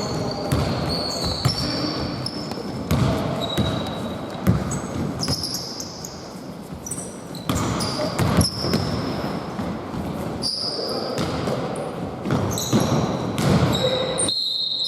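Basketball game play in a large gym: a ball bouncing on the court with repeated thuds, many short high-pitched sneaker squeaks, and scattered players' shouts in a reverberant hall.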